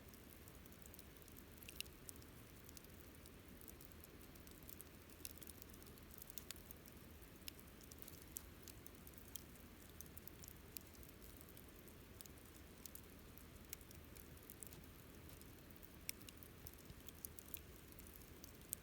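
Wood campfire crackling softly: irregular sharp snaps and pops scattered over a low, steady rush of the burning fire.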